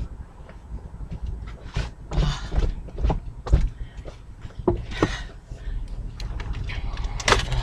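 Knocks, clicks and rustles of things being handled while cleaning out a car's interior, with two short hissing bursts about two and five seconds in, over a steady low hum.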